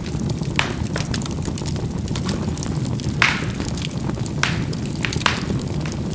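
Charcoal burning in a fireplace: the flames make a steady low rumble under constant fine crackling, and the burning coals pop sharply four times.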